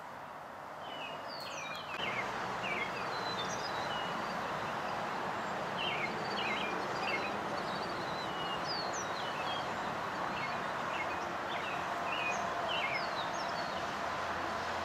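Small birds chirping repeatedly over steady background noise that grows louder about two seconds in.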